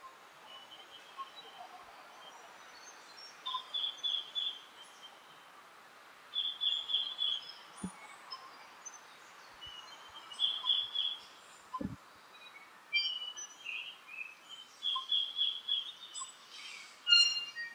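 Tui singing in forest: short bright phrases repeated every few seconds over a steady hiss, getting busier with clicks and higher notes near the end.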